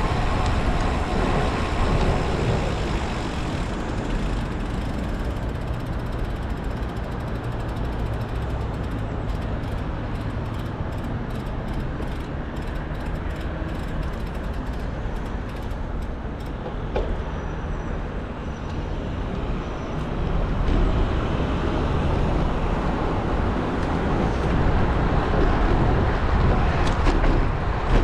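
Wind rushing over the action camera's microphone, with road noise while riding a road bike in traffic. A run of fast, light ticking comes in the middle.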